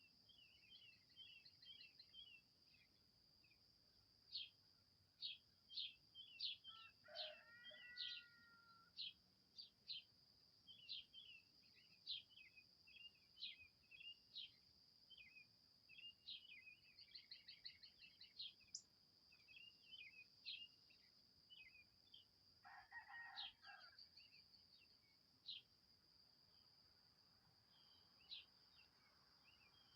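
Faint birdsong: many short, quick chirps in rapid runs over a steady high-pitched insect drone. Two longer, lower calls stand out about a quarter of the way in and again about three-quarters of the way in.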